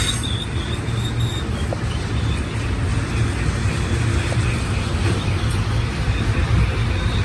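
Freight train cars rolling past with a steady low rumble. A high-pitched wheel squeal fades out in the first second and a half.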